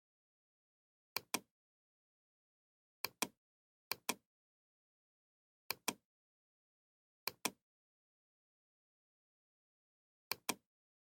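Computer mouse clicking, six times, each a quick pair of sharp clicks, with dead silence between.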